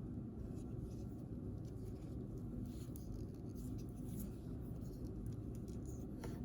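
Soft rustling and crinkling of paper and plastic toy packaging being handled, in scattered light strokes over a steady low hum.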